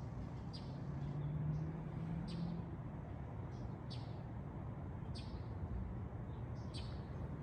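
A small bird chirping over and over, one short, high, down-sliding chirp about every second, over a low steady background hum.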